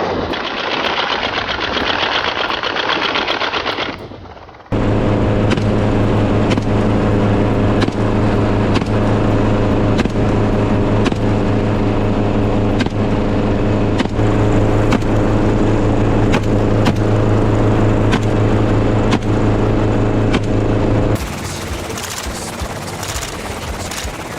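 Helicopter running, its steady drone crossed by repeated rifle shots about once a second, fired at feral hogs from the aircraft. The sound changes abruptly about four and a half seconds in and again near the end, as separate clips are joined.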